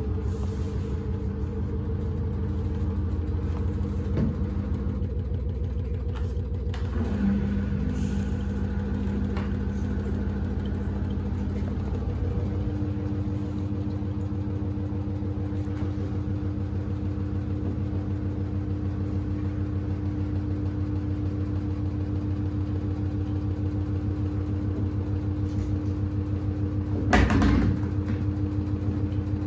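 Samsung WD70T4047CE front-loading washing machine running mid-cycle with a steady mechanical hum, loaded with sneakers. A single louder thump comes near the end.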